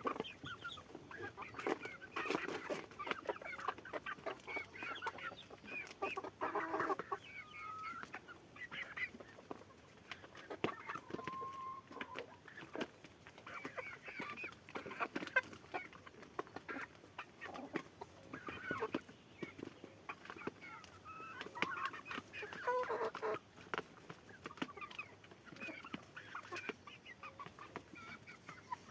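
Chickens clucking and peeping: a busy, continuous mix of short calls and high chirps, with scattered small clicks.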